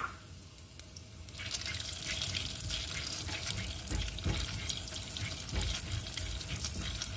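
Dal frying in a little hot oil in a pan: a steady crackling sizzle that starts about a second and a half in.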